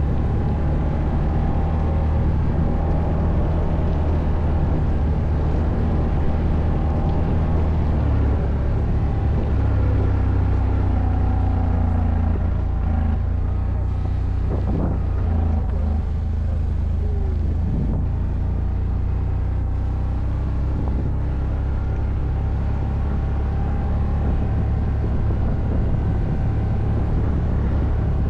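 ATV engine running while riding off-road, a steady low drone whose pitch shifts a few times as the throttle changes.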